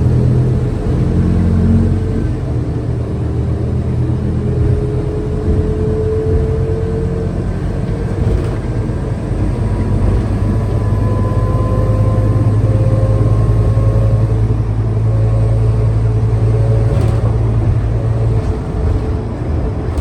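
Scania K320UA city bus under way: its engine drones steadily while thin drivetrain whines rise slowly in pitch as it gathers speed.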